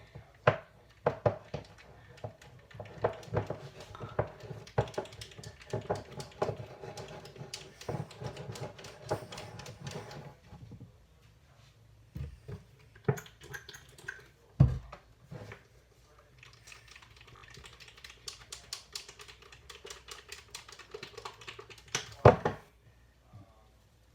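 Butter slime being worked by hand: rapid, irregular sticky clicks and crackles, with two heavier thumps in the second half.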